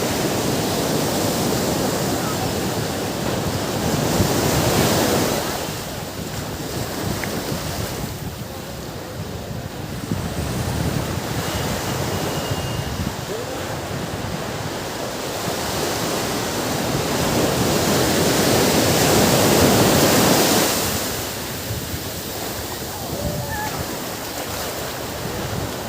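Ocean surf washing on a beach: a continuous rush of water that swells as waves break, loudest about five seconds in and again around twenty seconds in.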